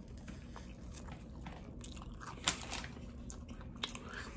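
A person biting into a Philly cheesesteak on a soft roll and chewing it, with small wet mouth clicks and one louder crunch about two and a half seconds in.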